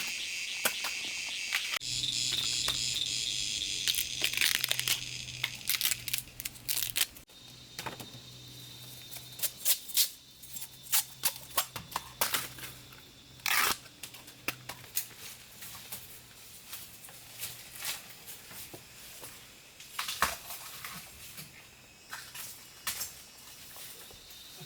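Scattered sharp cracks, tearing and rustling of plant material being handled. Over the first seven seconds there is a dense insect trill, and a low steady hum runs through the first half.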